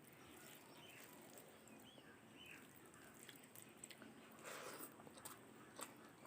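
Faint chewing of rice and curry, with small wet mouth clicks and lip smacks scattered through.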